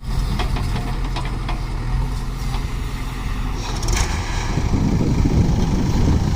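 A heavy diesel engine running steadily, with a few metallic clanks in the first two seconds and around four seconds in. The engine gets louder and rougher in the last two seconds.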